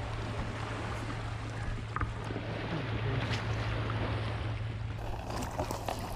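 Steady wind-and-water noise around a kayak on the water, under a constant low hum, with a few light clicks that grow more frequent near the end.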